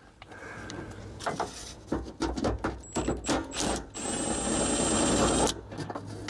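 Small electric power tool whirring in a few short bursts, then running steadily for about a second and a half with a thin high whine before stopping abruptly, amid light clicks and knocks.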